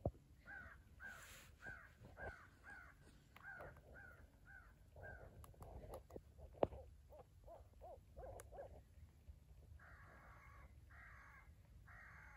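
Faint crows cawing: a run of short calls about two a second, then lower calls, then harsh caws about once a second from about ten seconds in.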